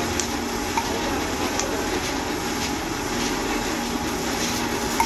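Steady machine noise with a low hum and a few light clicks.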